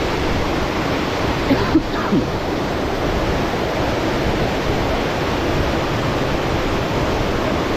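Waterfall rushing as a loud, steady roar of falling water, heard close to its foot. A brief voice-like sound occurs about two seconds in.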